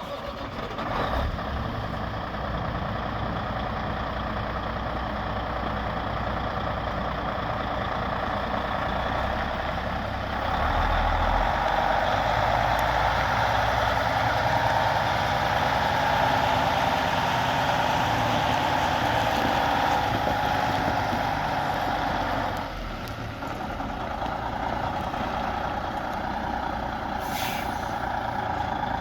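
Diesel engine of a 2015 Freightliner Coronado semi tractor starting and then running steadily. About ten seconds in, the engine speed is raised and held for about twelve seconds, then drops back to idle. There is a short air hiss near the end.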